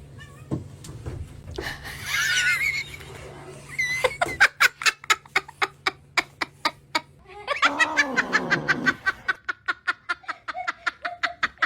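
A person laughing in quick, rhythmic bursts of about four a second, with a wavering high-pitched cry near the start and a falling one around the middle.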